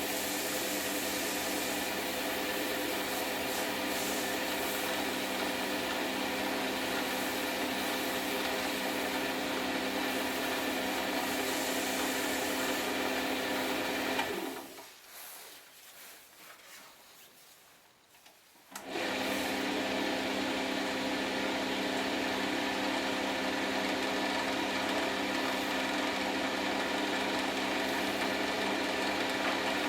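Wood lathe motor running steadily. About halfway through it is switched off and fades for a few seconds, then starts again suddenly.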